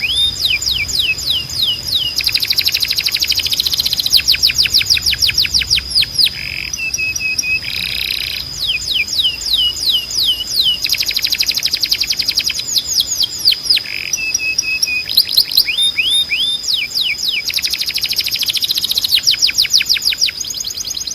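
Timbrado canary, the Spanish song-canary breed, singing phrase after phrase of fast repeated trills, with brief breaks between phrases and a couple of lower, level notes. A thin steady high tone runs beneath the song.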